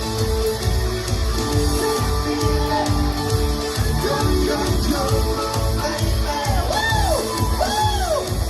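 Live band playing rock and roll with a steady drum beat; over the last couple of seconds a line of arching, rising-and-falling notes rises above the band.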